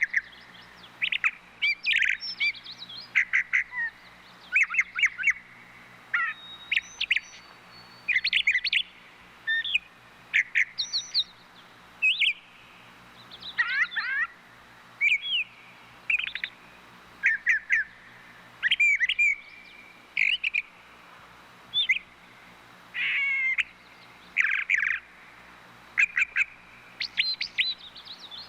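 A bird calling repeatedly in short clusters of sharp chirps and squawks, with brief pauses between the clusters.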